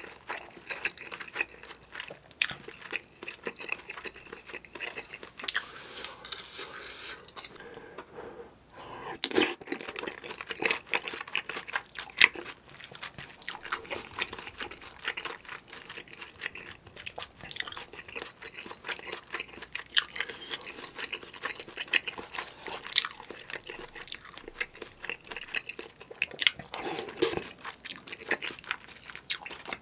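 Close-up chewing and mouth sounds of a person eating spicy kimchi stew with rice and Spam, with a dense run of small wet clicks and smacks.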